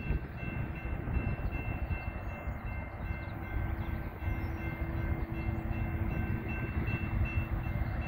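Approaching freight train heard from a distance: a steady low rumble that slowly grows louder, with a faint high ringing tone throughout and a low steady tone joining about three and a half seconds in.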